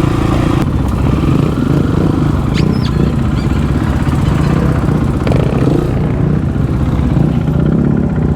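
Supermoto motorcycle engines running close by, their pitch rising and falling unevenly as the throttles are blipped.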